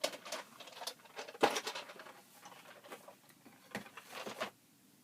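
Hands handling small craft items: irregular light clicks and rustles, the sharpest about a second and a half in, stopping shortly before the end.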